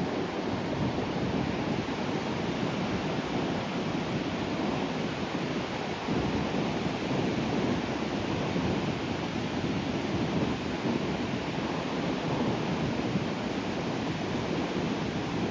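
Waves breaking and surf washing on a rocky shore, a steady rushing wash that swells slightly about six seconds in, with some wind buffeting the microphone.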